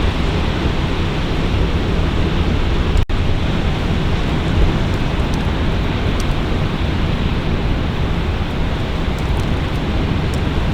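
Strong wind buffeting the microphone: a loud, steady rumbling noise, heaviest in the low end, that drops out for an instant about three seconds in.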